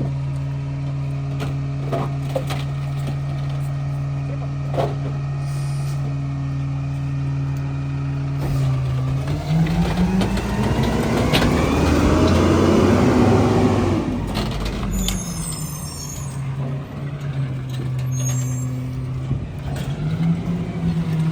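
Mack MRU garbage truck's compressed natural gas engine idling steadily, then revving up about nine seconds in as the McNeilus rear loader's hydraulic packer cycles. It holds high for a few seconds, drops back to idle, and starts rising again near the end.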